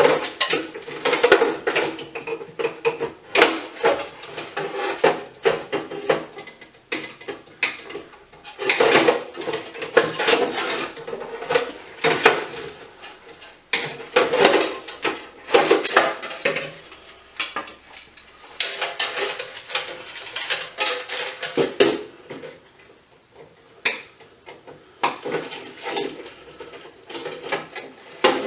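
Metal parts and hand tools clattering, scraping and knocking in irregular bursts as an electrical unit with sheet-metal housing is taken apart, with a quieter lull about two-thirds of the way through.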